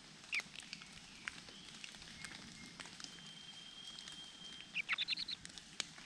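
Birds at a large niltava nest while the male feeds the nestlings: a short sharp call just after the start, a thin steady whistle held for over a second in the middle, then a quick run of loud high chirps near the end. Light clicks and rustles sound throughout.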